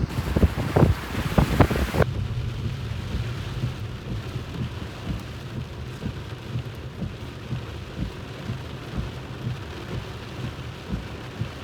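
Wind gusting on the microphone for about two seconds. It changes abruptly to a steady hiss of rain, with small low rumbles of wind on the microphone.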